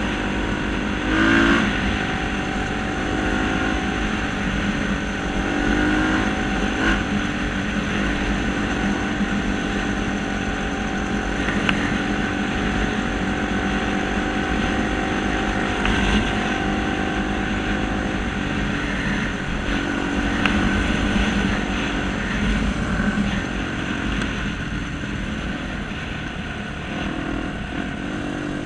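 Motor vehicle engine running continuously, its pitch stepping up and down a few times as it revs.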